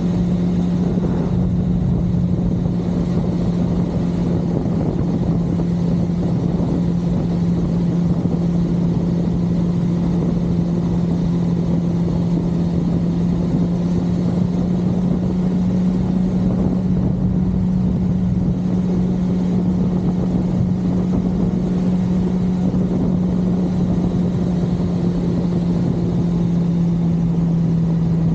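1982 Suzuki GS550L's air-cooled inline-four engine running at a steady cruise on the road. Its drone climbs slightly about halfway through, then settles back, over a constant rumble of wind noise.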